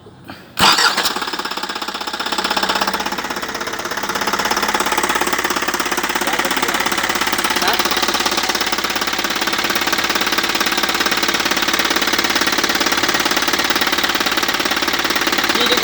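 Isuzu truck diesel engine starting up suddenly about half a second in and then running with a steady, rattling diesel clatter, picking up a little about four seconds in.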